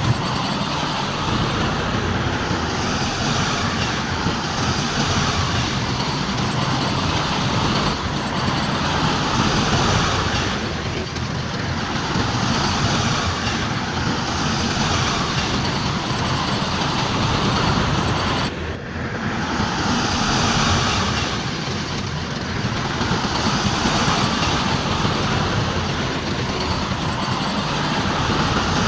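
Heavy diesel construction machinery at work: engines running under load, with dense clattering noise that swells and eases every few seconds, and a brief break about two-thirds of the way through.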